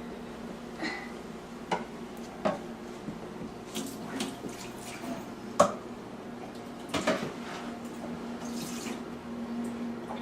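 Water sloshing and dripping in a sink of soapy dishwater, with scattered clinks and knocks of dishes handled in it; the sharpest knock comes a little past halfway.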